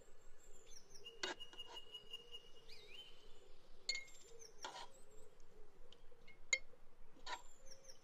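Birds chirping and whistling, with high calls and short pitch glides. A few short sharp clicks are scattered through, and a faint low wavering tone runs underneath.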